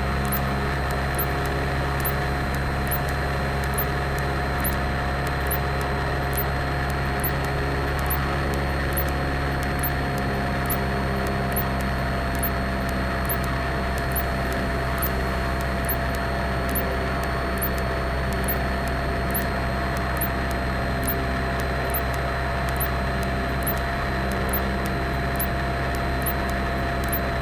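Cessna 172's piston engine and propeller droning steadily in flight, heard from inside the cockpit, with a steady high-pitched whine over it.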